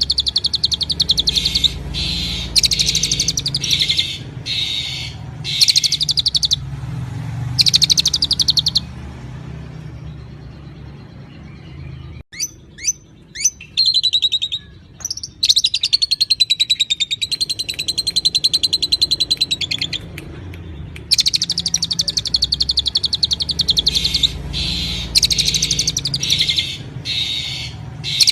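Songbirds singing: fast, buzzy trills in repeated bursts, then after a pause a few quick sliding whistles and a wavering warbled song, before the rapid trills start again.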